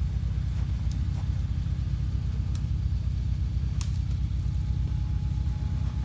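Off-road vehicle's engine running steadily, a low, even rumble, with a few faint clicks over it.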